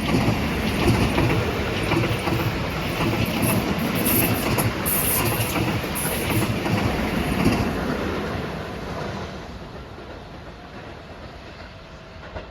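Keihan electric train running on the rails, wheels clicking over rail joints. It is loud for most of the time, then dies away over the last few seconds.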